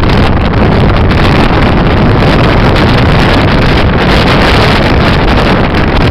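Gale-force wind buffeting a camcorder microphone: a loud, constant rumbling roar with no let-up.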